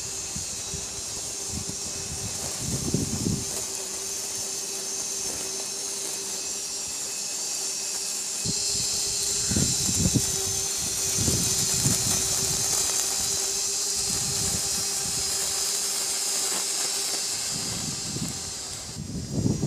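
A machine running steadily with a constant hum and a strong high hiss, with irregular low gusts of wind on the microphone.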